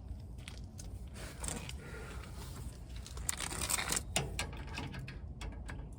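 Scattered light clicks and scrapes of tools being handled while greasing the van's chassis fittings, over a low steady rumble.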